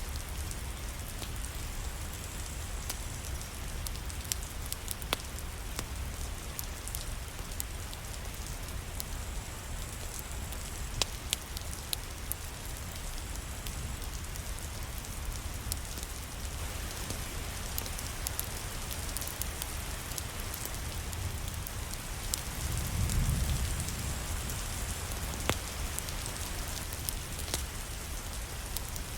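Steady rain, with scattered sharp clicks. A low rumble swells briefly about three quarters of the way through.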